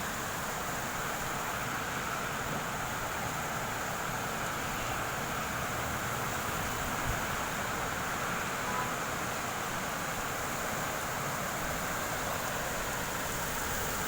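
Rain and wind of a storm: a steady, even hiss.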